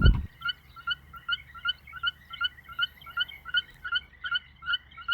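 Frogs calling after heavy rain: a quick, even series of short, high chirping notes, about three a second.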